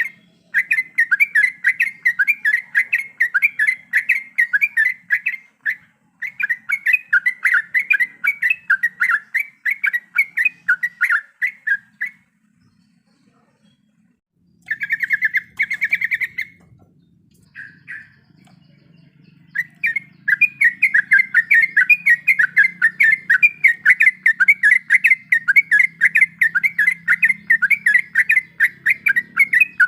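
Yellow-vented bulbul (trucuk) singing a long, fast roll of rapidly repeated chattering notes. The song breaks off for a couple of seconds about halfway through, gives a short burst, then resumes steadily.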